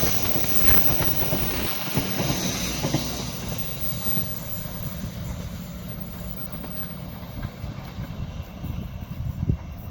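Train rolling past, with steady wheel-on-rail rumble and irregular clatter of wheels over the rail joints, slowly easing off in loudness.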